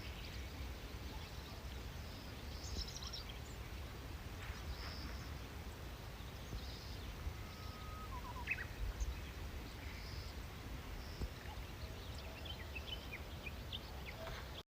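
Outdoor ambience: a steady low wind rumble with scattered faint bird calls, a few short chirps and one brief whistled note in the middle.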